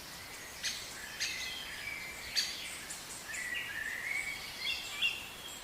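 Budgerigars chirping and warbling: a steady run of short, high chirps and gliding calls.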